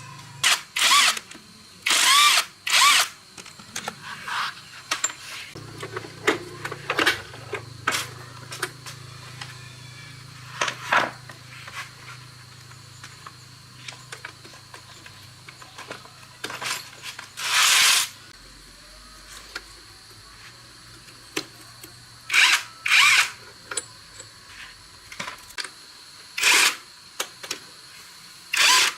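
A handheld power drill run in short bursts of under a second, about a dozen of them at irregular intervals, some rising in pitch as the motor spins up. Lighter clicks and knocks fall between the bursts.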